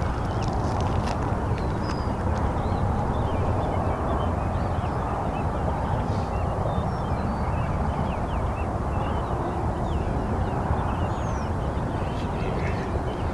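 Many small birds chirping and twittering over a steady low outdoor rumble.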